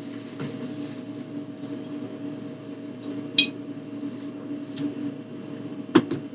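Glass and hard food containers being handled and set down, with a sharp glassy clink about halfway through and a solid knock near the end, over a steady low hum.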